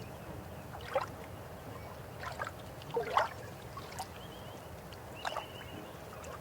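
River water flowing steadily, with gurgling splashes breaking through about four times.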